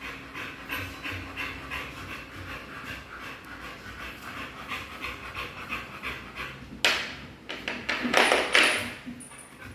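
A dog panting rapidly and rhythmically. Near the end comes a sharp knock, then a louder noisy rustle lasting about a second.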